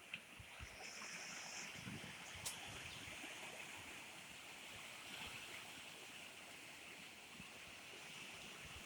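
Faint, steady hiss of light rain falling, with a few small ticks, a brief high-pitched tone about a second in and a single sharp click about two and a half seconds in.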